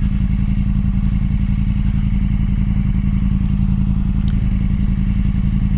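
Motorcycle engine running at a steady speed while riding, with an even, unchanging pitch.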